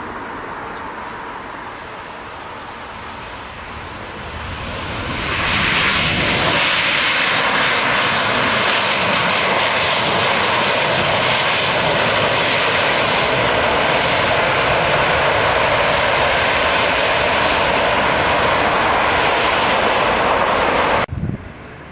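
Jet airliner landing: its engine noise swells over a couple of seconds into a loud, steady rush that holds, then cuts off abruptly near the end.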